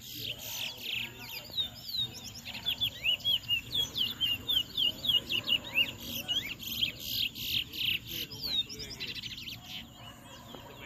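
Towa-towa (chestnut-bellied seed finch) singing a rapid string of short, sliding chirped notes, densest in the middle and thinning out near the end.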